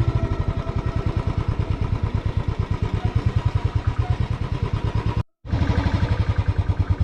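Motorcycle engine running steadily on the move, a low pulsing of about ten beats a second, broken by a brief total dropout about five seconds in.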